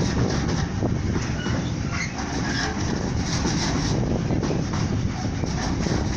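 Container freight train passing close by at speed, its wagon wheels rumbling steadily on the rails with a faint clatter over the rail joints.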